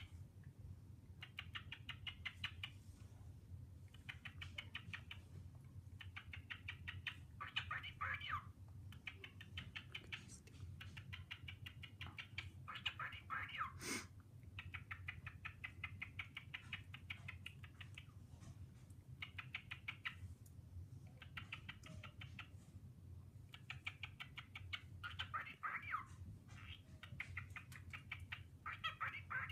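Male cockatiel chattering quietly in repeated short spells of rapid, scratchy clicking warble, with brief pauses between them. There is one sharp click about halfway through.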